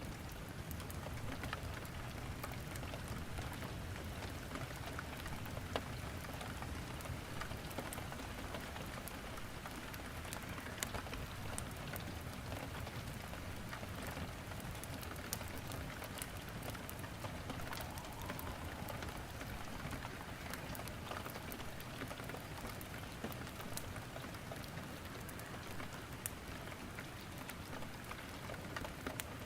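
Steady rainfall mixed with a wood fire crackling in a fireplace, with scattered sharp pops and snaps throughout.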